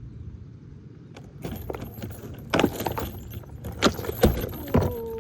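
Irregular clattering and jangling of small hard objects, starting about a second in, with several sharper knocks through the second half.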